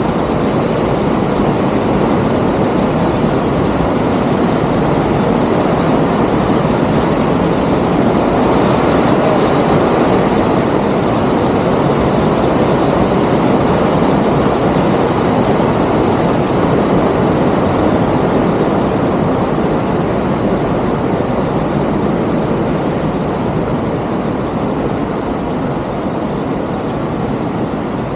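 Loud, steady rushing roar of a waterfall, close by.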